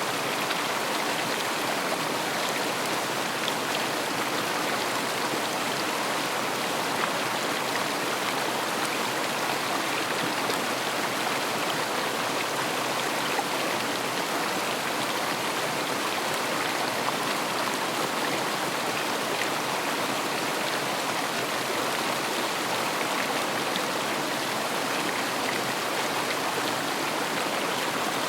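River water flowing and babbling over rocks, a steady even rush with fine splashing detail.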